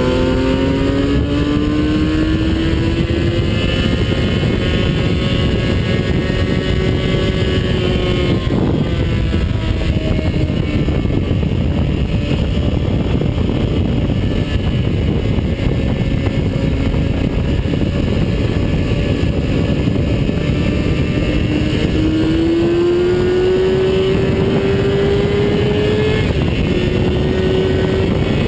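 Onboard sound of a vehicle's engine at track speed. Its pitch climbs steadily under acceleration, drops sharply about eight seconds in and holds, then climbs again near the end with a short dip. Heavy wind and road noise run underneath.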